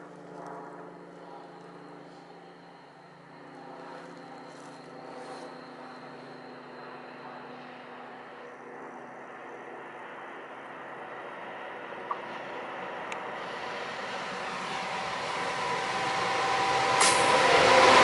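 Electric locomotive approaching, a steady hum of its traction equipment that grows gradually louder. Near the end the freight train is passing close by, with loud wheel and rail noise.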